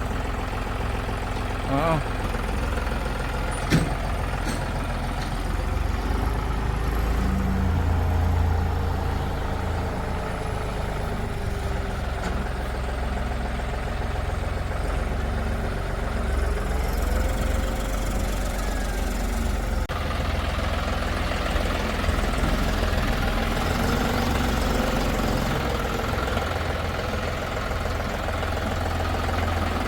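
Diesel engines of a backhoe loader and tractors running steadily, with the engine pitch rising and falling a few times. Two sharp knocks come in the first four seconds.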